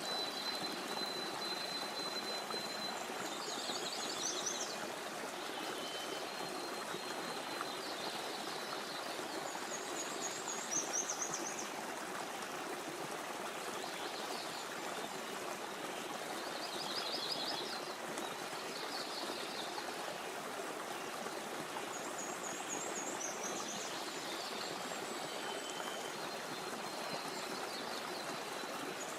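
Stream running steadily, with small birds calling now and then in short high trills and thin whistles.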